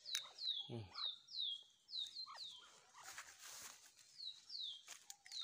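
A bird calling a short, falling chirp over and over, two or three times a second, with a short break around the middle; a brief human voice is heard about a second in.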